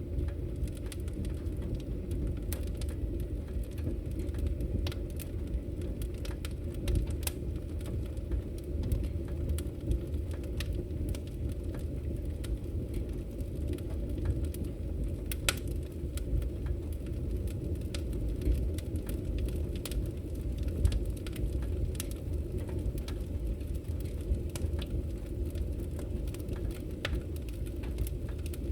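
Wood fire crackling in a fireplace: a steady low rumble of burning logs with sharp crackles and pops scattered at irregular intervals, one louder pop about halfway through.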